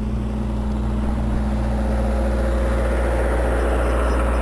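Steady low rumble of wind and road noise while riding an e-bike, with traffic noise swelling louder through the second half.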